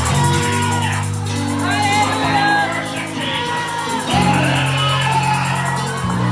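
Congregational worship: instrumental music of long held chords that change every few seconds, with voices singing and shouting praise over it.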